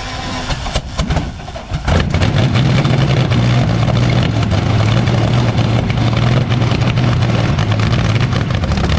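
Rolls-Royce Meteor V12 engine being cranked, giving a few sharp firings in the first two seconds, then catching about two seconds in and running loud and steady.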